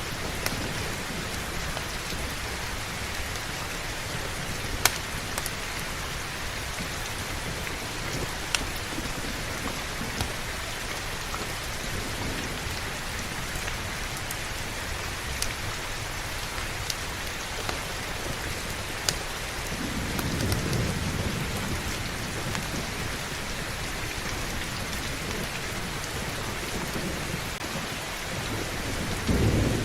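Heavy rain falling steadily, with scattered sharp crackles. A low thunder rumble swells about twenty seconds in, and another starts near the end.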